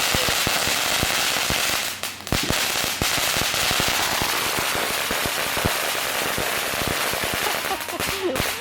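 Consumer fireworks crackling and popping in a rapid, dense stream, with short lulls about two seconds in and near the end.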